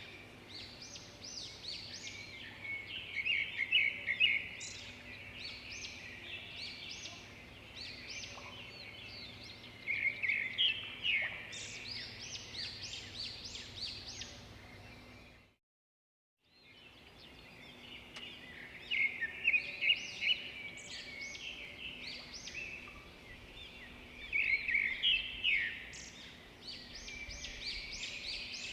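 Birds chirping in clusters of quick high notes and trills over a faint steady hum. The sound cuts out completely for about a second midway, then the chirping resumes.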